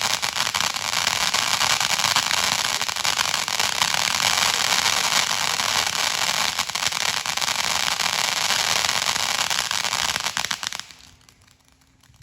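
Fireworks crackling: a dense, unbroken rattle of countless tiny pops that holds steady, then stops abruptly about eleven seconds in.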